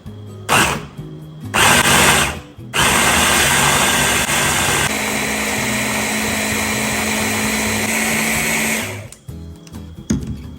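Electric blender motor run in two short pulses, then held on for about six seconds, its note shifting partway through the long run, as it purees a vegetable sauce.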